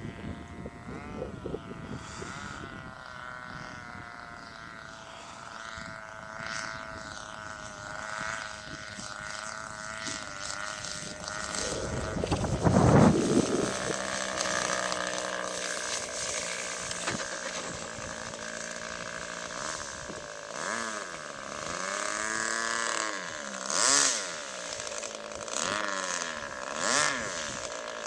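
RC model airplane's small fuel-burning engine running in flight on landing approach, its pitch rising and falling as it passes and the throttle changes. Wind buffets the microphone briefly about halfway through.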